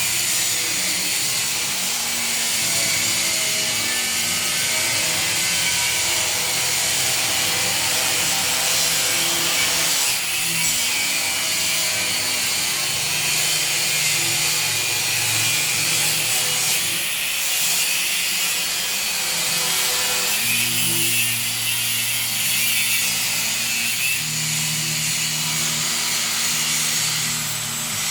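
Angle grinder's abrasive disc cutting through 2 mm steel plate, a steady high, hissing grind with no pauses.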